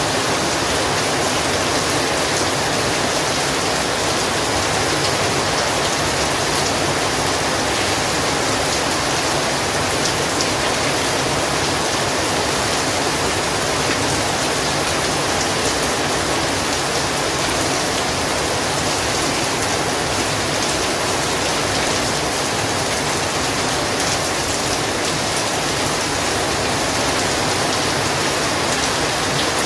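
Heavy rain falling in a steady, dense hiss, with faint drop ticks.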